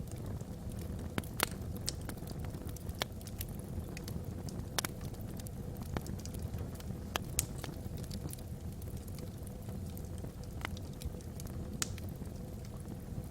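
Wood fire burning in a fireplace: irregular sharp crackles and pops, roughly one a second, over a steady low rumble.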